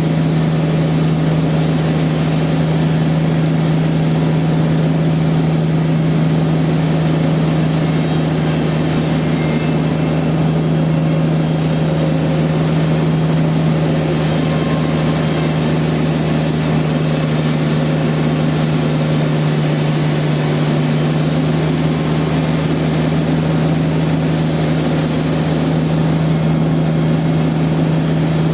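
Sawmill machinery running steadily with a constant loud hum and noisy whir, without any change in pitch or load.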